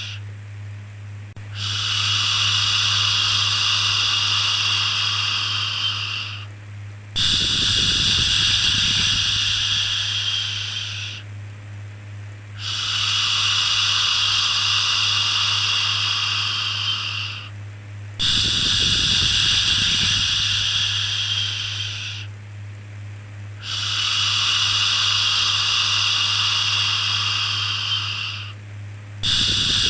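A looped shushing "shhh" sound, the kind used to soothe babies: long hissing shushes of about four to five seconds each, repeating with a short pause between them, over a steady low hum.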